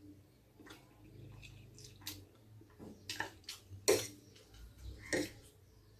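Close-miked eating sounds: a person slurping and chewing spicy noodles, a string of short, irregular wet sounds, the loudest about four seconds in.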